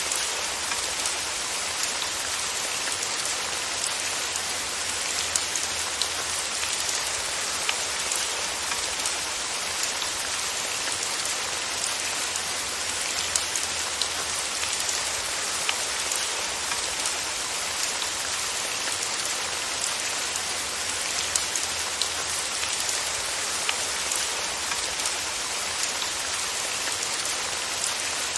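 Steady rain falling on a surface, an even hiss with many small individual drop taps scattered through it.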